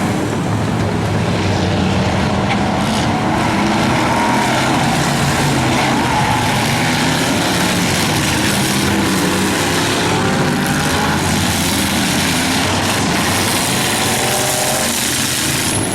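Several demo race car engines running at once around an oval track, their overlapping notes rising and falling as the cars speed up and slow through the turns.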